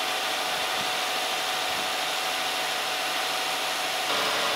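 Hyundai Grandeur TG idling steadily, a whooshing hum with a faint steady tone, a little louder from about four seconds in.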